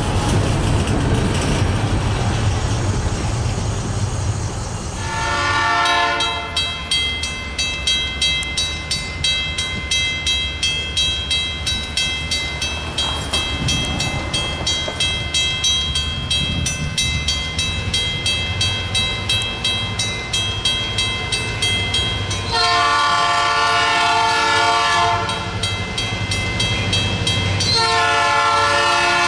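Freight cars rumbling over the rails at first. Then a diesel locomotive's air horn sounds briefly, a grade-crossing bell rings steadily at about two strikes a second, and the horn blows two long blasts near the end as the train approaches the crossing.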